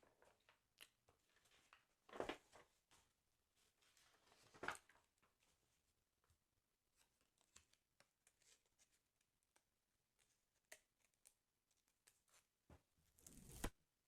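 Faint handling of a sticker album's paper pages: short rustles about two and five seconds in and a longer one near the end, with light taps and clicks in between.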